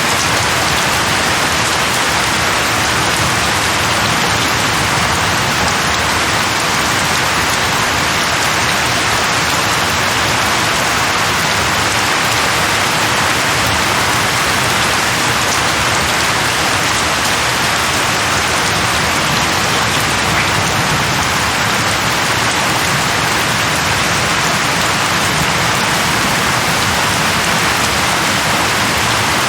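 Steady rain falling on a hard surface, an even, unbroken hiss with no thunder.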